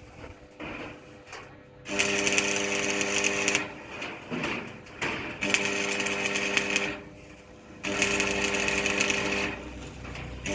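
An electric power tool running in three short bursts of about a second and a half each, with pauses between them.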